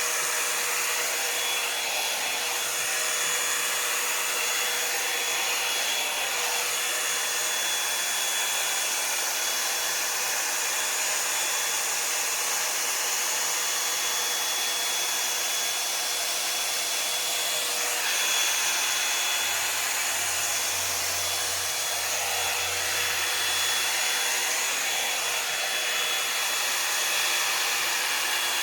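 Revlon One-Step hair dryer and volumiser brush running steadily: the rush of blown air with a motor whine over it.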